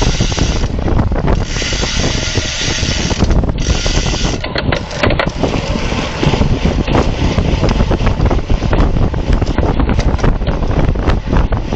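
Heavy wind buffeting the microphone of a camera on a road bike riding at speed, with many sharp clicks and knocks over it.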